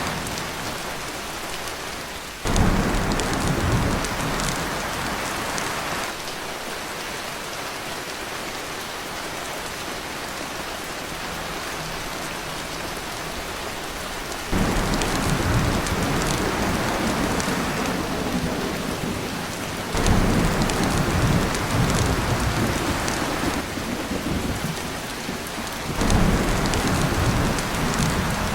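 Heavy rain drumming steadily on a tin roof, with four rolls of thunder that come in abruptly and rumble for a few seconds each.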